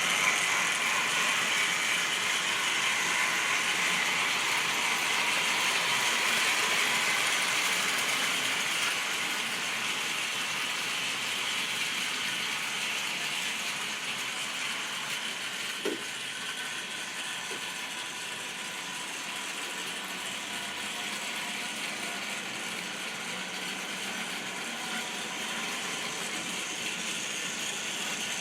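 Model railway train running along the track: the locomotive's small electric motor and gears make a steady mechanical whirr. It slowly grows fainter, with a single click about sixteen seconds in.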